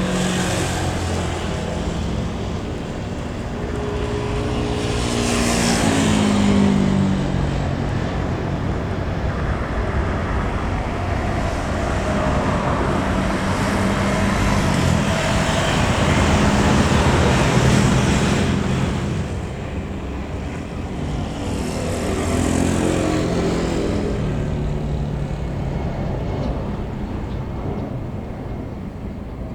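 Road traffic going by: a steady roar that swells and fades. Engine notes drop in pitch as vehicles pass, about five seconds in and again about twenty-two seconds in.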